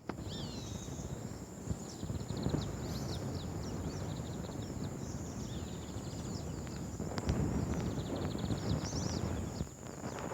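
Small birds chirping over and over, with a steady high whine running underneath and a continuous low rumbling noise that grows louder about seven seconds in.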